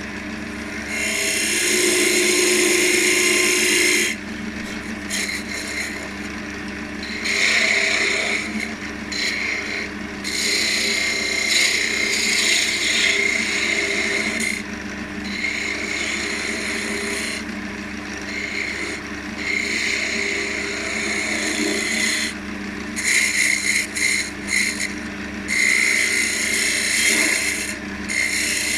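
Wood lathe running steadily while a spindle gouge cuts a small elm spindle in repeated passes of a second or few, each pass a scraping hiss of the tool on the spinning wood.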